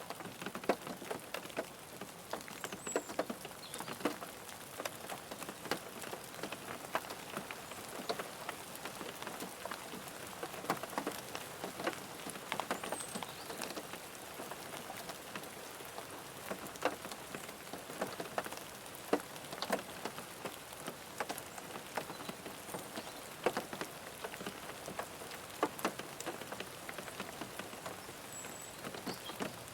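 Rain falling on a car's roof and glass, heard from inside the car: a steady hiss with many irregular, sharp drop ticks.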